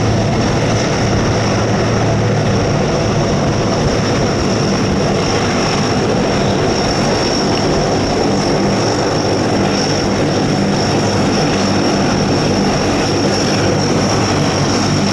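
Aircraft engine running steadily: a constant low drone with a steady high whine above it, unchanging throughout.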